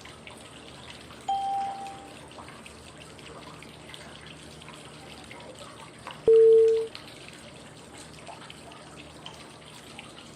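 Steady flowing-water white noise with two short cue tones five seconds apart, the second lower in pitch and louder than the first. They are the prompt tones that pace the 5-second phases of 555 breathing.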